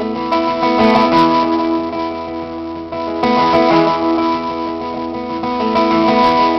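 Strummed acoustic guitar playing chords in an instrumental passage of a live song, with no singing.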